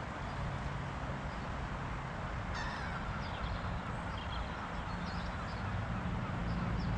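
Birds calling repeatedly, starting about two and a half seconds in, over a steady rush of wind and moving water.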